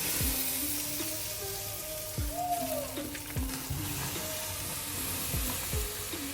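Chicken sizzling over a charcoal fire on a jerk pan grill: a steady frying hiss. Background music with held notes and deep bass thumps plays along with it.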